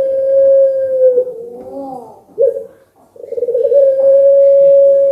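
Puter pelung dove cooing: a long, drawn-out steady coo ends in a wavering dip about a second in, a short note follows, and a second long held coo starts just past halfway.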